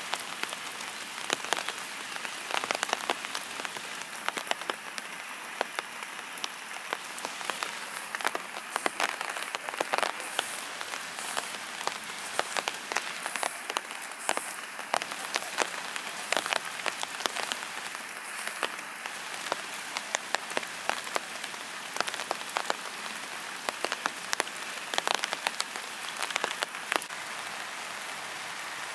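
Steady rain falling, with frequent sharp taps of individual drops landing close by.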